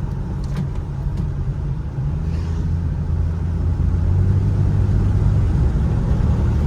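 Ford Mustang engine and road noise heard from inside the cabin while driving. The low engine drone grows louder about two seconds in and holds there.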